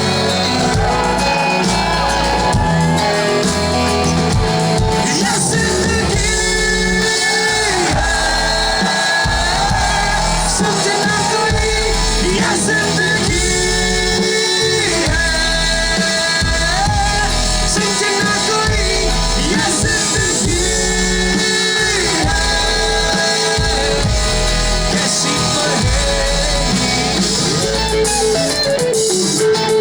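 Live rock band playing a song, with a voice singing over the band and held lead notes recurring every few seconds.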